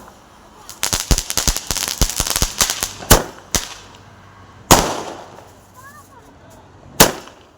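Firecrackers going off: a rapid string of crackling pops for about two seconds, then four separate loud bangs at irregular intervals, each dying away quickly.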